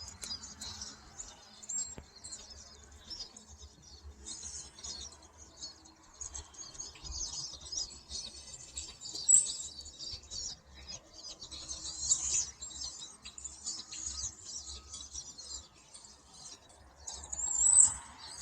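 A large flock of pine siskins, many of them fledglings, calling continuously in a dense high-pitched chatter of short overlapping calls, with a few louder calls close by about nine seconds in and near the end.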